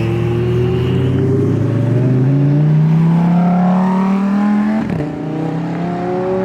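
A car engine accelerating under load, its pitch climbing steadily for about five seconds, dropping sharply at a gear change, then climbing again in the next gear.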